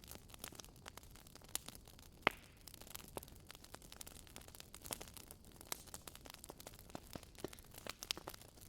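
Quiet wood fire crackling in a fireplace: irregular sharp pops and snaps over a faint hiss, with one louder pop about two seconds in.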